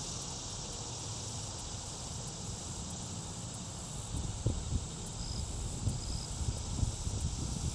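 Outdoor ambience: a steady high hiss of insects, with wind buffeting the microphone in uneven gusts from about four seconds in.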